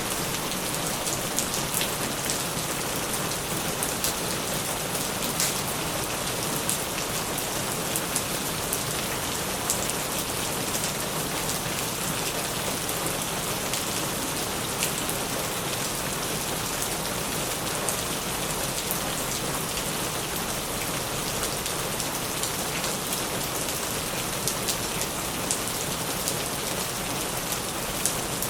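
Heavy rain falling steadily: a dense, even hiss scattered with many sharp drop ticks.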